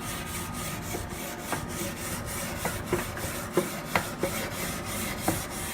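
Hot dogs and sausages sizzling on a hot grill: a steady hiss with scattered sharp pops and crackles.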